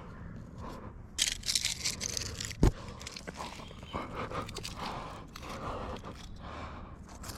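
Crunching and scraping of someone moving over dry leaves and rock, with a burst of crackling about a second in and a single sharp knock soon after.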